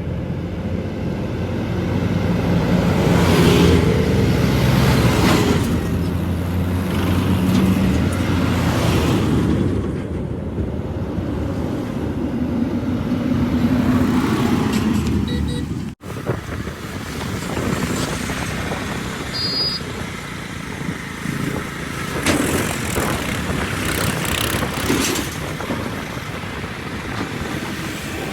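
Diesel engines of a backhoe loader and farm tractors running under working load, the engine note swelling and easing as the machines work.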